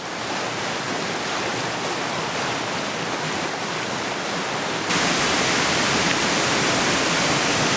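Waterfall rushing steadily, a dense even hiss of falling water that grows louder and brighter about five seconds in.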